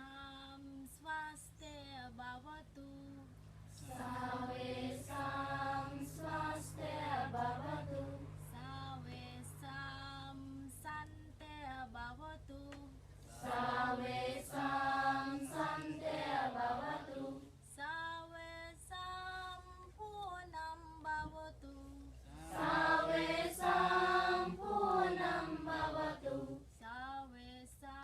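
Female voices singing a slow, melodic devotional chant in long phrases with short breaths between them. A low steady drone sits underneath for the first half or so, then drops away.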